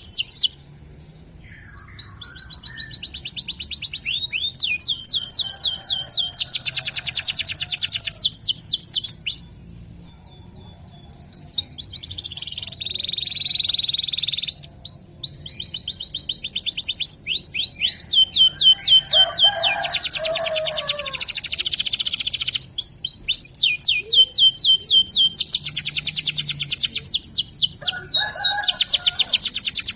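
Local domestic canary singing long, rapid rolling trills of quickly repeated high notes, broken by a couple of short pauses.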